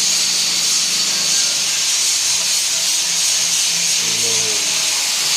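Steady hiss of welding on a ZF 6HP26 automatic transmission's torque converter, with a high whine held throughout.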